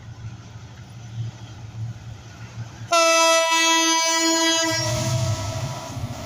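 Diesel locomotive horn sounding one long blast about three seconds in, its pitch sagging slightly as it ends, over a low rumble from the approaching train. After the horn the rumble of the passing train grows loud.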